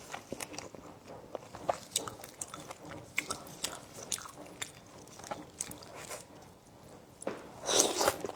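Close-miked eating: wet mouth clicks and chewing, with a louder noisy rush about a second before the end.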